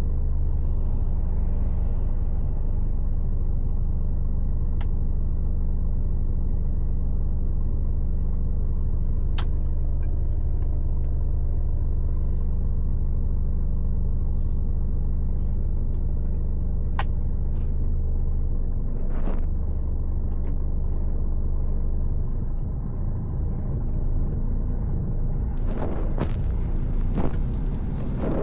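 Heard from the cab, the diesel engine of a Mercedes Actros L truck is running with a steady low note, which shifts and grows uneven about two-thirds of the way in. Short air hisses come once around the middle and several times near the end.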